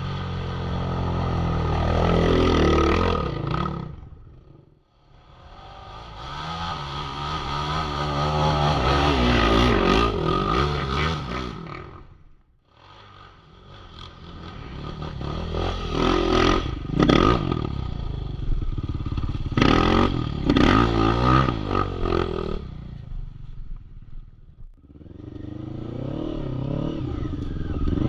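Quad bike engines revving hard, heard in four separate passes that each build up and die away, with sudden drops between them. In the middle passes the engine pitch swings rapidly up and down as the throttle is worked.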